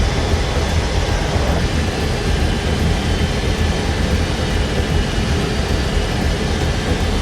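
Steady jet engine noise from a C-17 Globemaster III's turbofans, an even rushing sound over a deep, constant rumble.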